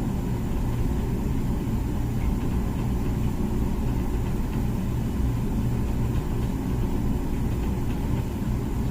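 Comfee dishwasher running mid-cycle: a steady low hum and rumble.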